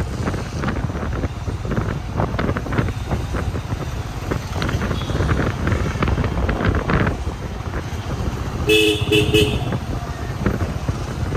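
Road noise from a moving vehicle, a steady low rumble with wind rustle, and a vehicle horn giving a quick run of about three short beeps about nine seconds in.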